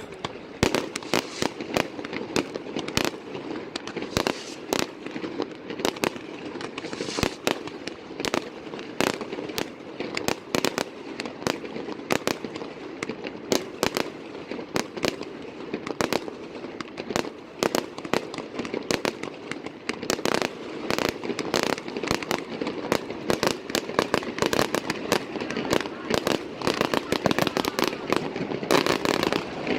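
Fireworks display going off in a rapid, unbroken string of sharp bangs, about two or three a second, like a finale barrage.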